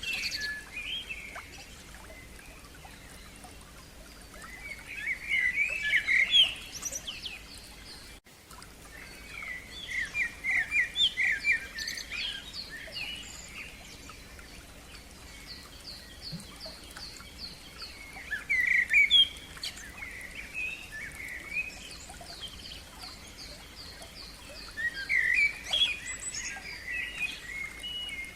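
Songbirds singing outdoors: bursts of rapid chirps and trills every few seconds, with a thin, high series of quick repeated notes in between.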